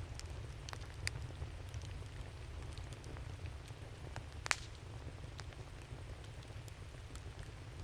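Wood campfire crackling, with scattered sharp pops, the loudest about four and a half seconds in, over a steady low rumble.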